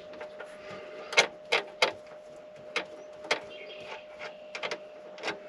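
Scattered sharp clicks and clinks of tools and metal hardware being handled during battery wiring work, with a steady faint hum underneath.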